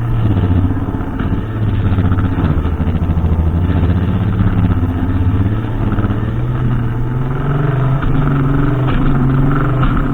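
Brushcutter engine running in a steady drone, its pitch wavering slightly and stepping up a little about seven seconds in.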